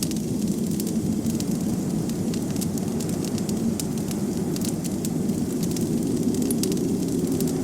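Wood fire crackling in a fireplace: many small, sharp pops at irregular intervals over a steady, low rushing noise.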